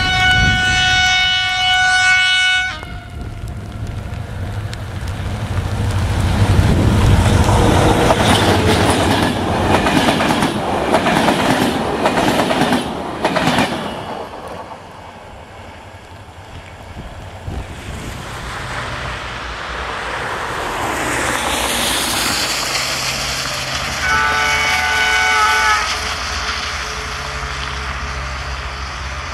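A diesel locomotive's horn sounds for about two and a half seconds. The passenger train then passes close by, with engine noise and the wheels clattering over rail joints. About twenty-four seconds in, a second, lower locomotive horn sounds for about two seconds.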